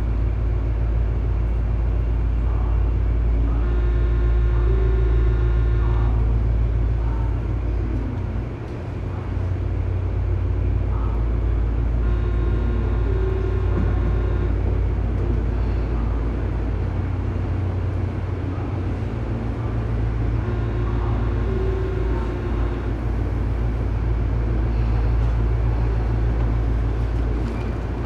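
Tobu 9000 series electric train car standing at a station, its onboard electrical equipment giving a steady low hum. A brief high tone comes and goes about every eight seconds.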